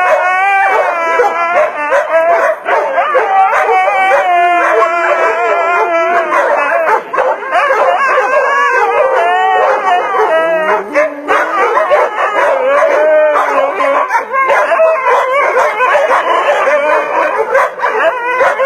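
Dog howling and yipping almost without a break, its pitch wavering up and down in a long, song-like stream.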